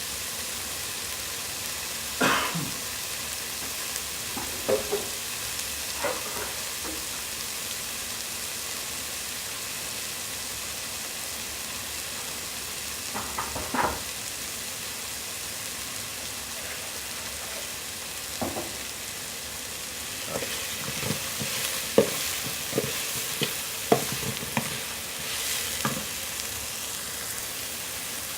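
Chili curry paste sizzling as it fries in oil in a pot, with scattered knocks and scrapes of a utensil stirring against the pot. The knocks come more often in the last third.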